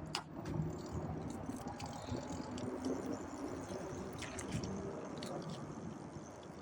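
Steady low rumbling noise of an e-bike being ridden, with a few faint light clicks.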